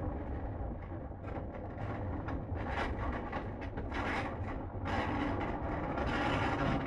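Running noise inside a moving electric commuter train carriage: a steady low rumble with frequent clicks and rattles, growing louder from about five seconds in.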